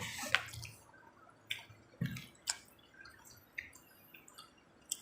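Close-up eating of pizza: irregular wet chewing clicks and mouth smacks.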